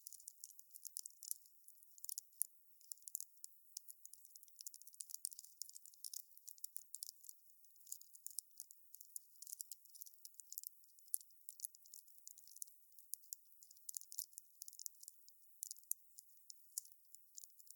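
Wood fire crackling: a dense, irregular stream of faint, sharp pops and snaps, thin and high-pitched with no low rumble of flames.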